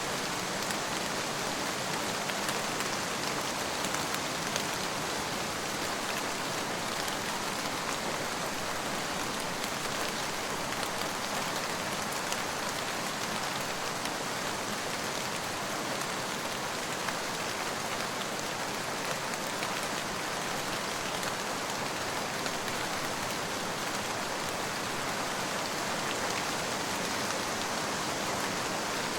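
Steady rain falling on a surface, an even dense patter with fine drop ticks and no thunder.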